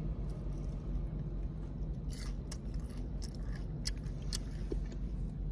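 Chewing of breaded fried zucchini sticks, with a few crisp crunches and clicks, over a steady low hum.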